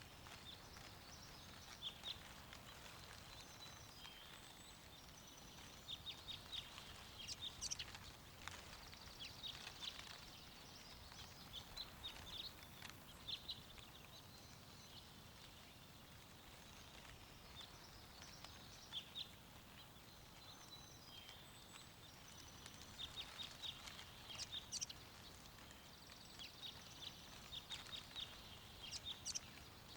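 Faint birdsong: small birds chirping in quick runs of high notes that come and go every few seconds, over a soft, steady wind.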